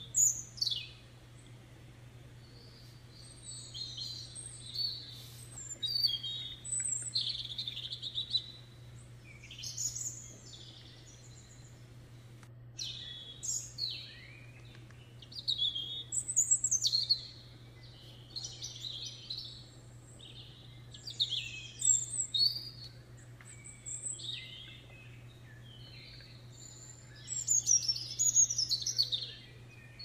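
Birdsong: several birds chirping and warbling in short phrases every second or two, over a steady low hum.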